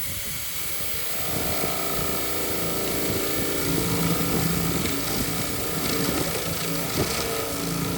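A motor running steadily, with a constant hum.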